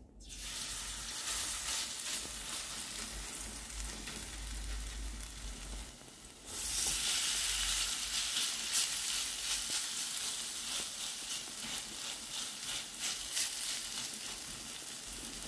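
Grated potato pancake mixture sizzling as it fries in hot oil in a frying pan; the sizzling steps up louder about six and a half seconds in as a second spoonful of potato goes into the oil.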